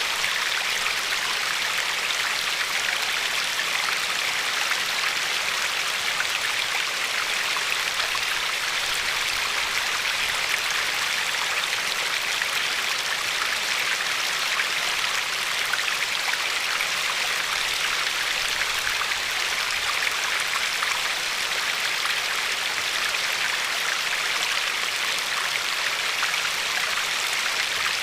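River water flowing and lapping along a pebbly shore: a steady, unbroken rush with a constant patter of small splashes.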